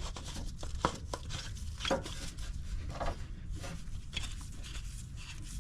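Oil filter housing cap being threaded on by hand: a scatter of small clicks, scrapes and handling noises as it turns on.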